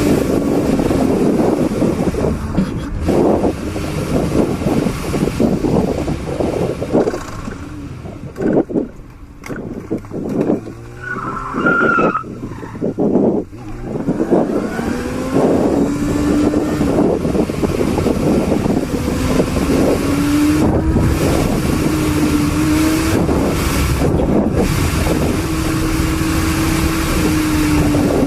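A motor vehicle on the move: its engine note rises and falls with speed over heavy road and wind noise, and it eases off for a few seconds in the middle.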